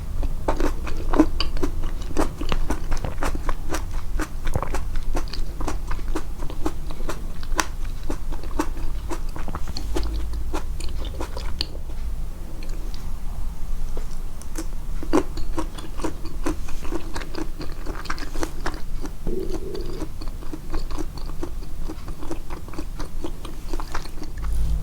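Close-miked chewing and biting of food: dense, irregular crunchy clicks and wet mouth sounds, with the chewing sounds boosted in the edit.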